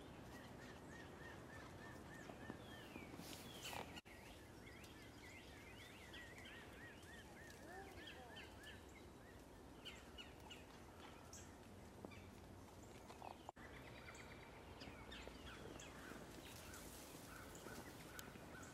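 Faint songbirds calling: scattered chirps and several quick runs of repeated rising-and-falling notes, over a steady low outdoor background hum.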